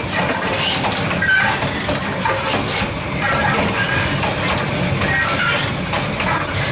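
Train running along the track, heard through the open gap between two coaches: a steady rumble of wheels on rail, with short high-pitched metallic squeaks scattered throughout.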